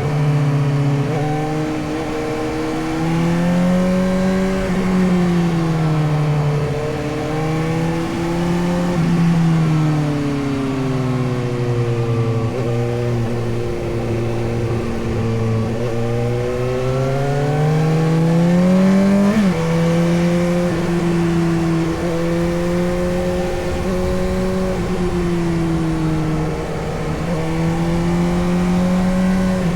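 Suzuki GSX-S750's inline-four engine running under way, its pitch repeatedly rising and falling as the throttle is opened and eased off. About twenty seconds in, a long climb in revs ends with a sudden drop, as at a gear change.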